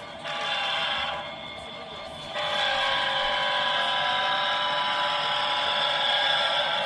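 Model locomotive's sound-decoder horn, heard through its small onboard speaker: a short blast, a brief pause, then a long held blast.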